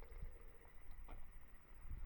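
Footsteps on a stony mountain path, a few short crunches about a second apart, over a low rumble of wind on the microphone.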